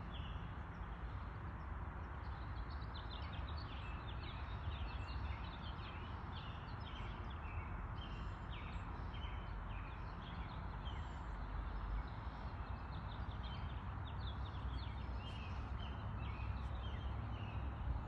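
Outdoor ambience: small birds chirping over and over in the background, over a steady low rumble.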